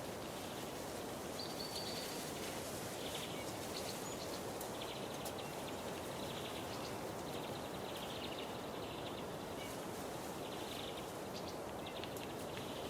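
Steady rushing of a waterfall about 10 metres high, with short high chirping trills from a bird repeating every second or two.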